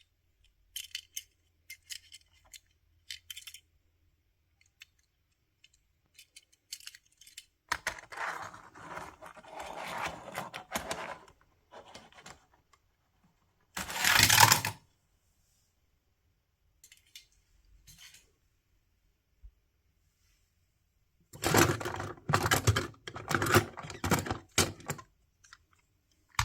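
Toy cars clinking and clattering as they are handled and rummaged through: a few light clicks at first, a rattling stretch, a short loud clatter, then a longer clattering stretch near the end.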